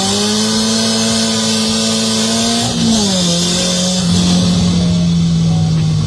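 Nissan S14 drift car's SR20DET turbocharged four-cylinder engine held at high revs while driving, its pitch dropping and settling lower about three seconds in.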